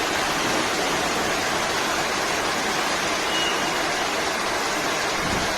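Steady, loud rushing of water, with no break or rhythm, typical of fast-flowing floodwater or a heavy downpour.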